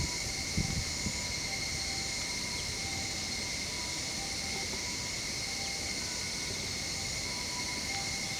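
Steady, unbroken chorus of insects trilling in summer, with faint short tones now and then underneath.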